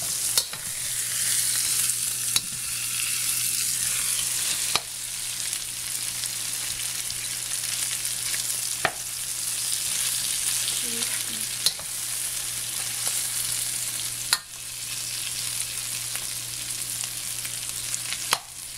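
Chicken pieces and garlic sizzling in hot oil in a wok, stirred and turned with a metal spatula that clicks against the pan every few seconds.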